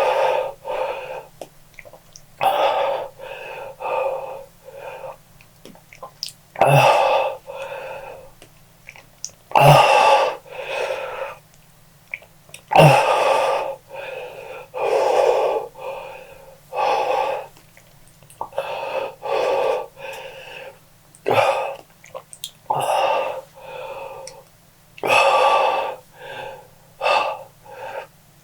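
A person breathing hard and wheezing in uneven breaths every second or two, with some sharp intakes of breath, from the burn of the Paqui One Chip Challenge chip.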